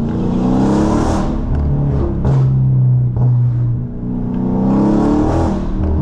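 Dodge Charger Scat Pack's 6.4-litre 392 HEMI V8, breathing through catless midpipes and an MBRP race exhaust, accelerating hard. The engine note climbs in pitch, levels off for a few seconds, then climbs again about four seconds in.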